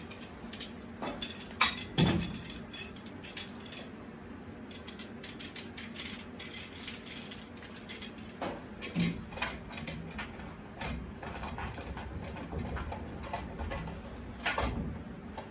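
Hands handling metal plumbing fittings and tools: scattered light clicks and clinks, with two sharper knocks about a second and a half and two seconds in.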